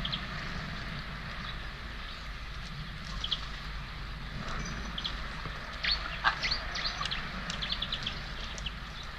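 Small birds at a feeder giving short, high chirps: a few scattered calls, then a quick flurry of calls about six to eight seconds in, over steady outdoor background noise.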